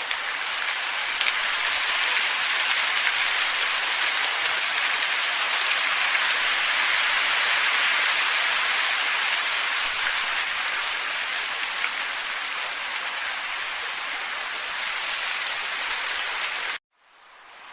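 Steady hissing wind ambience. It swells over the first couple of seconds, cuts out suddenly about a second before the end, then begins to fade back in.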